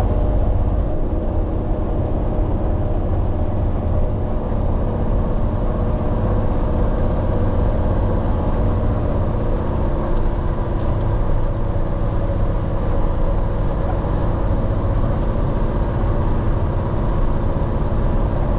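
Diesel engine of a Peterbilt 389X heavy rotator wrecker running steadily as the truck drives along.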